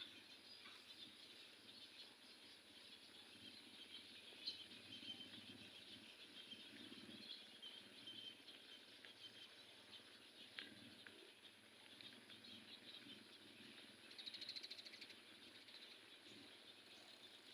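Faint, continuous chatter of many birds at an egret and heron nesting colony: short high chirps and calls overlapping throughout, with a brief rapid rattle near the end.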